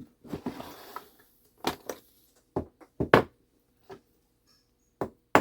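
A small brass hammer tapping on a metal clock part, about seven sharp strikes in small irregular groups, flattening a fitting so that it grips tighter.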